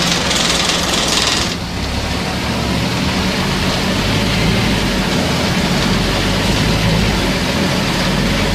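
Scania CN270UB city bus engine running steadily, heard from on board. A loud hiss over the engine cuts off suddenly about a second and a half in.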